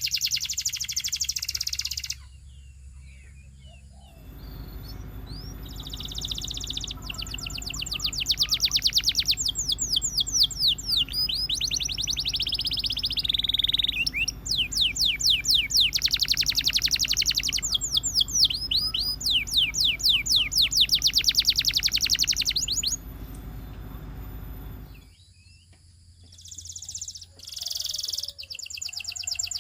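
Canary singing fast high-pitched trills: long runs of rapid repeated notes in phrases broken by short pauses. A steady low hum lies under much of it and cuts off suddenly near the end.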